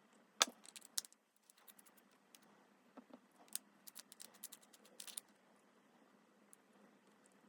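Faint, scattered clicks and small taps of precision repair tools on the metal and plastic hinge parts of a folding phone, with a sharper click about half a second in and a run of small ticks from about three to five seconds.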